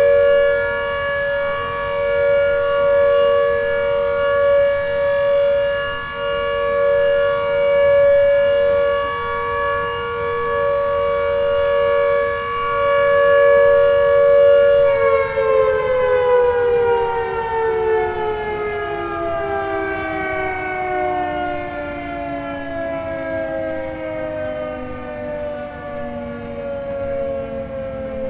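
Tornado warning siren sounding a steady two-tone wail. About halfway through its pitch starts to fall steadily as it winds down.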